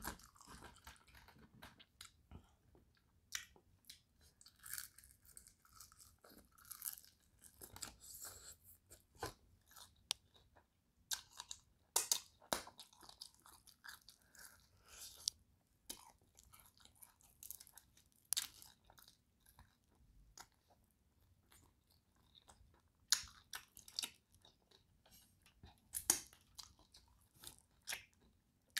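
Chewing and biting into crispy dry-rubbed fried chicken wings. Irregular sharp crunches come out of steady chewing, the loudest about twelve seconds in and several more later on.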